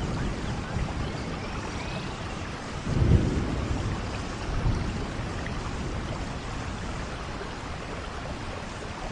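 Steady rainfall with low rumbles of thunder, the strongest swelling up about three seconds in and a smaller one shortly after.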